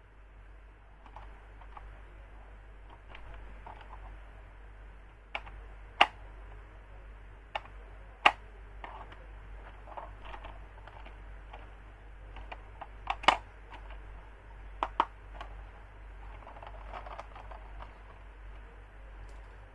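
Irregular sharp clicks and taps of hands handling hard plastic toys and their packaging, with a few louder knocks about six, eight and thirteen seconds in, over a low steady hum.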